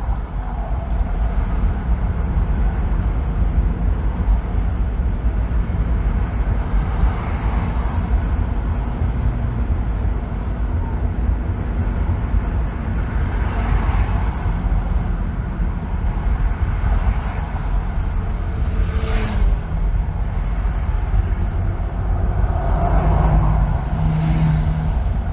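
Steady road noise of a car driving on a freeway: a constant low rumble of tyres and engine, with brief swells where other vehicles pass, the sharpest about three quarters of the way through and another near the end with a low hum.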